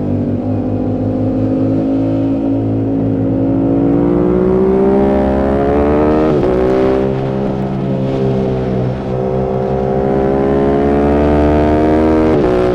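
Yamaha YZF-R7's 689 cc parallel-twin engine, breathing through an M4 aftermarket exhaust, pulling hard with the revs climbing steadily. Its pitch drops sharply at a quick upshift about six seconds in, then climbs again until another upshift near the end.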